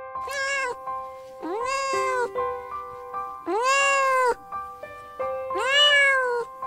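Cat meowing four times, each meow rising and then falling in pitch, over soft background music with held notes.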